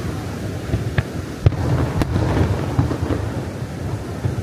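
Aerial fireworks display: a continuous low rumble of booming shell bursts, with three sharp bangs about half a second apart near the middle.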